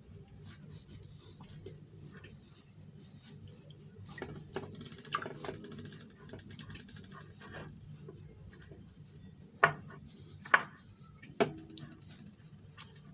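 Hands dredging raw chicken pieces in flour, with soft pattering, rustling and small clicks. Near the end come three sharp knocks, under a second apart.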